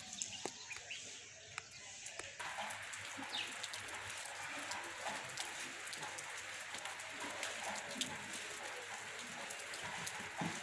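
Outdoor ambience with birds calling: a few short chirps and scattered clicks over a steady hiss that comes in abruptly about two seconds in.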